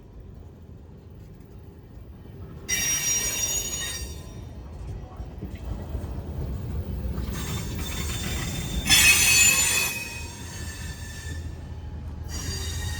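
Train wheels squealing on a tight curve as the train creeps around the wye: a high, ringing flange squeal comes three times, loudest about nine seconds in, over a low rumble of the moving train that builds through the middle.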